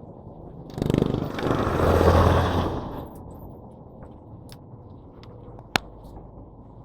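A motor vehicle passing close by: a rattle about a second in, swelling to a loud peak and fading over about two seconds. A single sharp click comes near the end.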